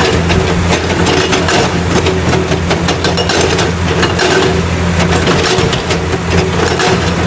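Toy rock-crusher vehicle running: a loud, steady engine-like hum with constant rattling clatter over it.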